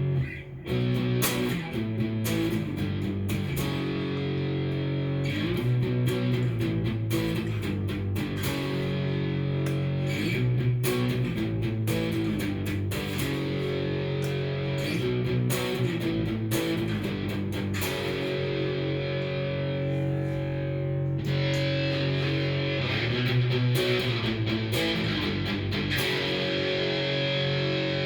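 Cort S-series electric guitar played through a Fender amplifier with no pedals, picking a run of chords that each ring for a second or two before the next.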